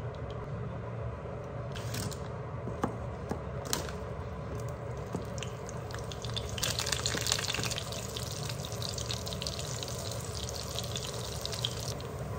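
Cooking oil poured into a frying pan, with a few sharp clicks. From about six and a half seconds in, breaded mozzarella sticks sizzle and crackle in the hot oil, dying down near the end.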